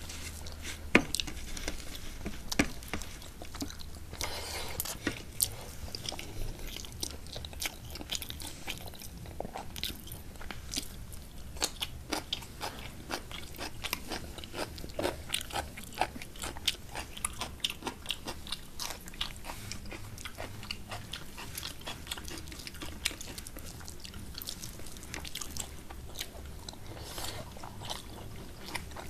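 Close-miked eating: two people chewing rice and curry eaten by hand, with many small wet clicks from mouths and fingers working rice on the plates.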